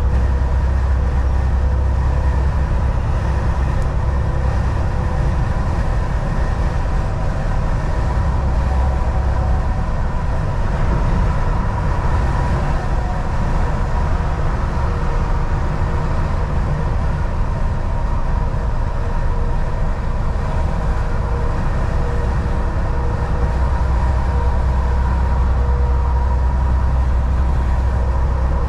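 Volvo VNL 760 semi truck driving at a steady highway speed: a constant low engine drone mixed with road and tyre noise, with a faint steady whine over it.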